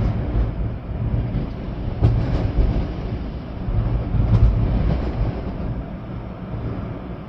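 Storm wind blowing hard in gusts through trees, with rain, heavy low rumble of wind on the microphone. The gusts surge about two seconds in and again around four and a half seconds, then ease off.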